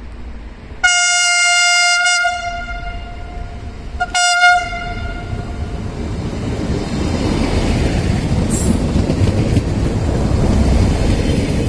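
Siemens Desiro diesel multiple unit sounding its horn: one long blast of about a second and a half, then a short blast about two seconds later, each a single steady tone. The train then runs close past, its rumble growing louder toward the end.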